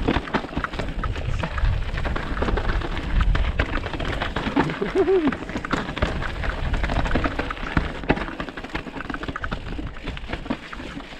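Mountain bike rolling down a rough, rocky track: tyres crunching over stones while the bike rattles with many sharp knocks, over a steady low rumble of wind and ride vibration on the camera.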